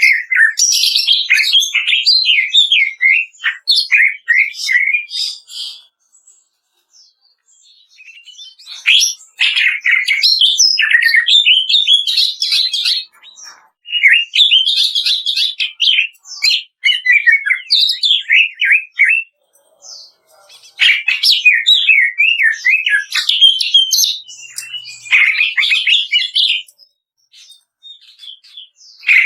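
Cucak ijo (green leafbird) singing in fast, varied bursts of chattering, rattling notes and quick whistles (the 'kretekan' type of song), broken by short pauses of a second or two. It is a masteran recording, song played to a caged bird to provoke it into singing.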